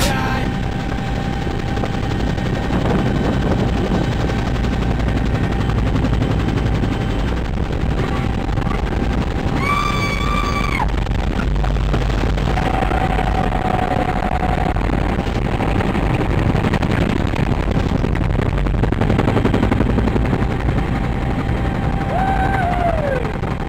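Helicopter in flight, heard from on board: a loud, steady drone of engine and rotor with a rapid, even beat of the blades.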